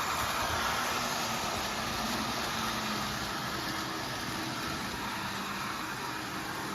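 Model train with a red diesel locomotive running steadily on its track, its motor and wheels giving an even whirring hum.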